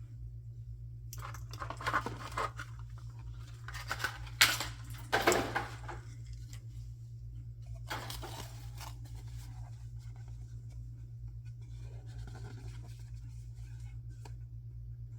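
Unboxing packaging being cut and torn open by hand in a few short bursts of tearing and crinkling, the loudest about four to five seconds in, over a steady low hum.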